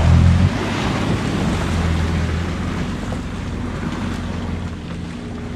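Personal watercraft engine running with a steady low hum, loudest at first and easing off over the seconds that follow, with wind noise on the microphone.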